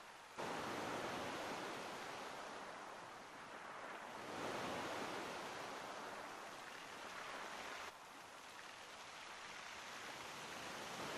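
Ocean waves washing in a steady rush that swells about half a second in and again around four seconds, then drops suddenly near eight seconds before building again.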